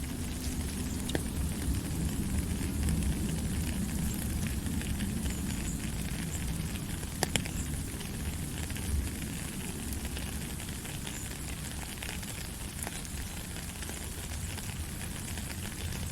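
Steady rain falling, an even hiss with scattered drop ticks over a low rumble, and one sharper tap about seven seconds in.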